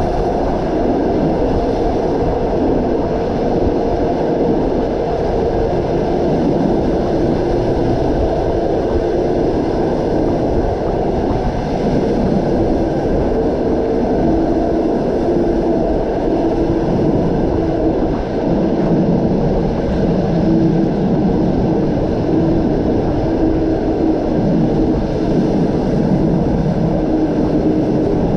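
Train running along the track: a steady, loud rumble of wheels on rails, with a level humming tone that grows clearer from about halfway.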